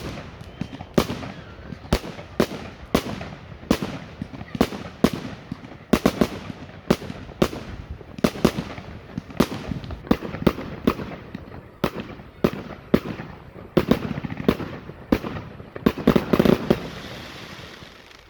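Category 4 display fireworks going off in a rapid run of sharp bangs, about two to three a second, with a denser flurry near the end that then dies away.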